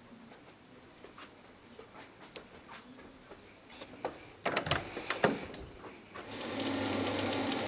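A few light ticks, then a cluster of sharp clicks and knocks, after which a small motor starts up about six seconds in and runs with a steady hum.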